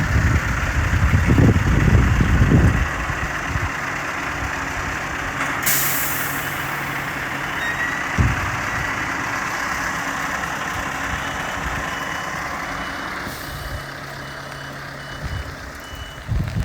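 Scania R520 truck's V8 diesel engine running with a heavy rumble at first. About six seconds in there is a sharp burst of air-brake hiss, and another shorter air release comes near the end. A reversing beeper sounds in short, evenly spaced beeps through the second half.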